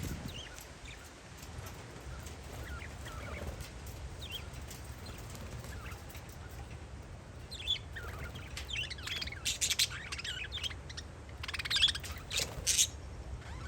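Parakeets chirping: scattered calls at first, then a busy run of louder, rapid chirps from about halfway through. A steady low rumble of wind on the microphone runs underneath.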